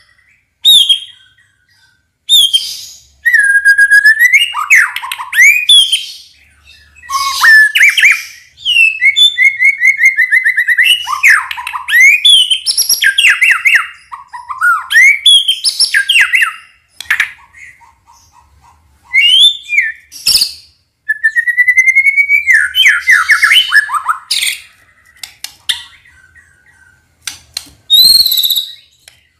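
White-rumped shama (murai batu) singing a varied song of loud, clear whistles, sweeping slurred notes and quick runs of repeated notes, delivered in short phrases with brief pauses between them.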